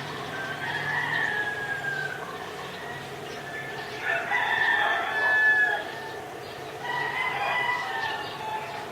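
Roosters crowing: three long crows, the loudest about halfway through.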